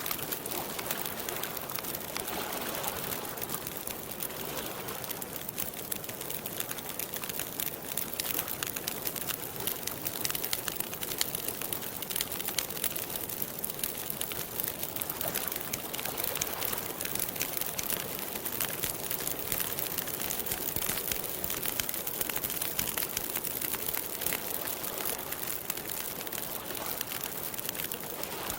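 Campfire crackling steadily, a dense run of small pops and snaps over a soft hiss.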